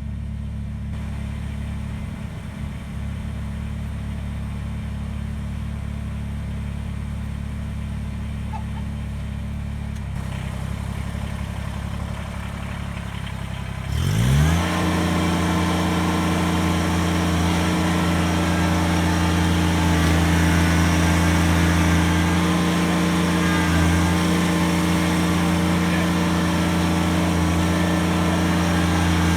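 Kubota BX23S tractor's three-cylinder diesel engine running low and steady, then throttled up about halfway through, its pitch rising quickly to a louder, steady higher speed.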